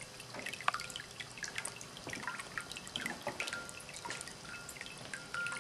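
Handmade stoneware cat drinking fountain running: water trickling and dripping into the ceramic basin in many small, irregular drips.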